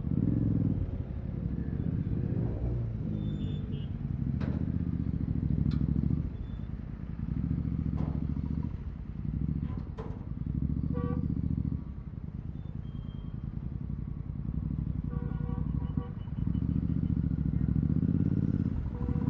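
Royal Enfield Continental GT 650's parallel-twin engine through Red Rooster aftermarket exhausts with no dB killers, swelling and easing off every second or two as the throttle is opened and closed.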